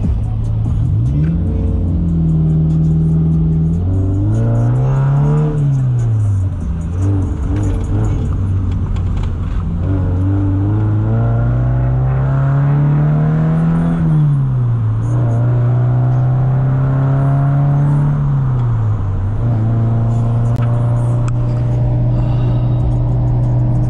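Motorcycle engine pulling and easing off, its pitch climbing and falling several times with steady stretches between, over heavy wind rush on the rider's microphone.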